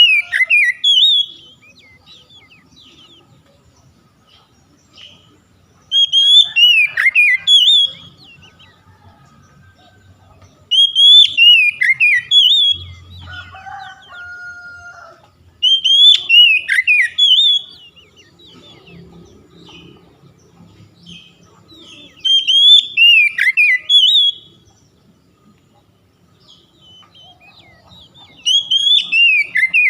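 Oriental magpie-robin (kacer) singing the same loud phrase over and over, about two seconds of quick high whistled notes every five to six seconds. A lower, drawn-out two-part call comes in once about halfway through.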